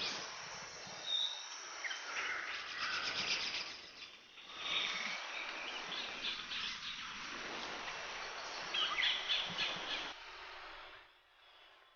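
Birds chirping and calling over a steady outdoor hiss, fading away about ten seconds in.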